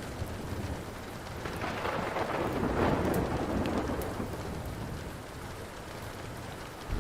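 Steady rain with a roll of thunder that swells about two seconds in and fades out within a few seconds. A few sharp crackles from a burning wood fire, and a low thump right at the end.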